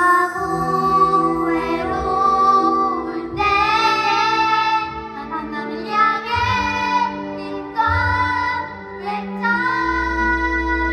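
Children singing a song over instrumental accompaniment, with long held notes.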